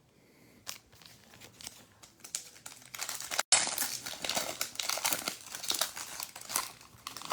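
Trading-card pack wrapper being handled and torn open: a few light clicks at first, then steady crinkling from about three seconds in, broken by a split-second dropout.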